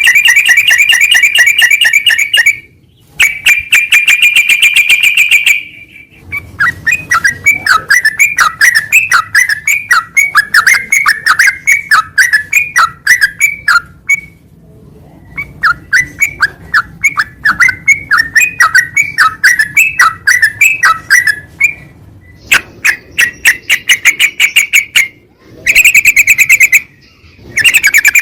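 Yellow-vented bulbul (trucukan) song from a bird-training recording. Bursts of rapid, buzzy trills at the start and again near the end, with long runs of quick bubbly chirps between them and a brief pause in the middle.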